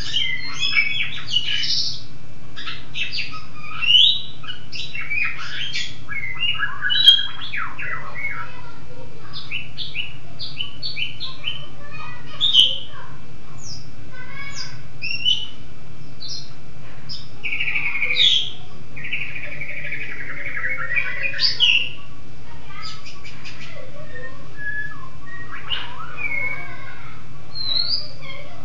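A songbird singing a long, varied song of quick chirps, trills and short whistled notes, with a steady low hum underneath.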